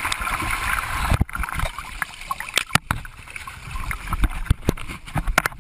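Seawater sloshing and splashing close to the camera, with many scattered knocks and bumps and a low rumble on the microphone.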